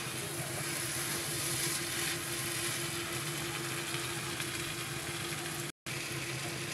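Barbatti and potato bhaji sizzling steadily in oil in a kadhai as it is stirred, with a steady low hum underneath. The sound drops out completely for a moment near the end.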